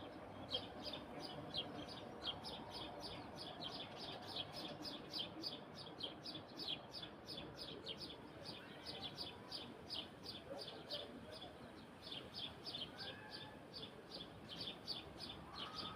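A high, short chirp repeated steadily about three times a second, the outdoor evening chorus of a small animal, over faint low background sounds.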